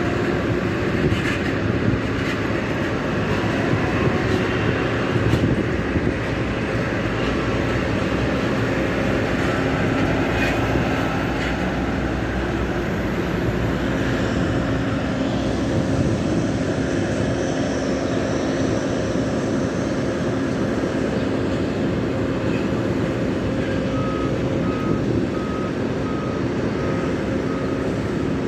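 Boeing 737 MAX 8's jet engines running steadily at low power on the apron: a loud, even noise with a steady hum. Near the end, a short electronic beep starts repeating about twice a second.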